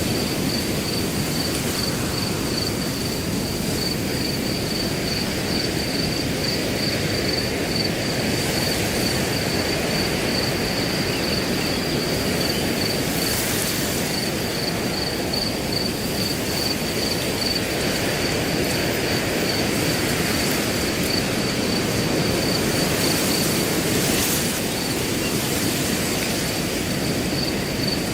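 Wind blowing through grass as a steady rushing noise, with a cricket chirping in a fast, even pulse over it. The wind swells briefly twice, about halfway through and near the end.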